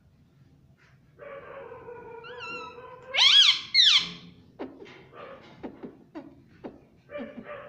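Indian ringneck parakeet calling: a drawn-out note, then two loud rising calls about three seconds in, followed by a few short soft clicks and chirps.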